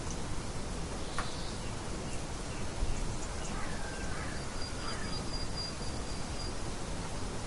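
Birds chirping and whistling over a steady rushing background hiss. There is a short call about a second in, a warbling phrase a few seconds in, and a thin high whistle held for about two seconds.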